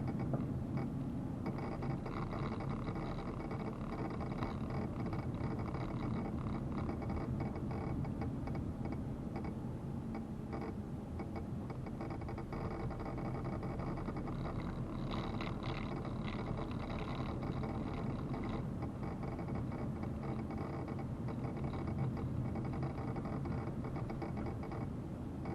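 A vehicle running steadily: a constant engine hum with road noise, no change in pace.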